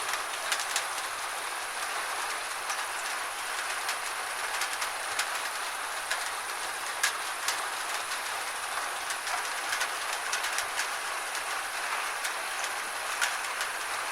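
Gentle rain falling steadily, an even hiss with many scattered sharp ticks of drops striking nearby surfaces.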